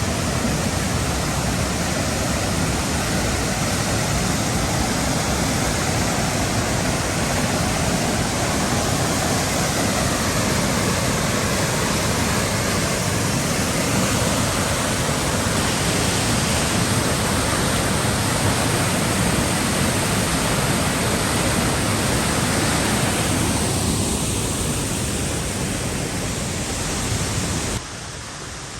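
Waterfall rushing in a loud, steady hiss of falling water, dropping suddenly to a quieter rush about a second before the end.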